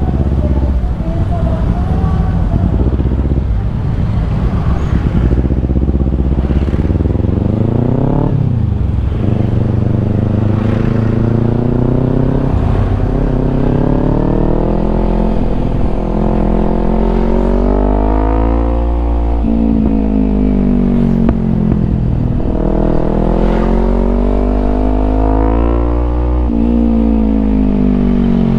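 Kawasaki Ninja 250 engine through a Yoshimura aftermarket exhaust, revving up and down as the bike is ridden. The engine note climbs and falls several times, dipping sharply about eight seconds in before rising again.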